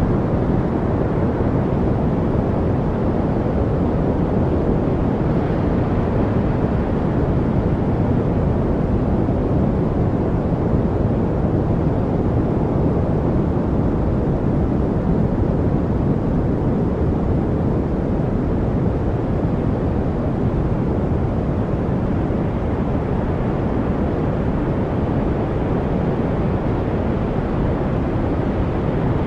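Steady masking noise for studying, deep and even, with most of its weight in the low end like brown noise. It stays unchanged throughout, with no distinct events in it.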